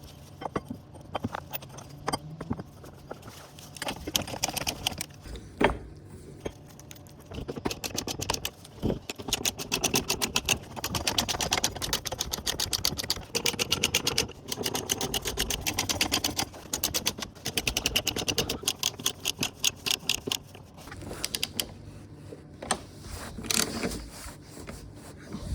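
Ratchet wrench working on metal fasteners, a long run of fast, even clicks through the middle, with scattered clinks and knocks of tools on metal before and after.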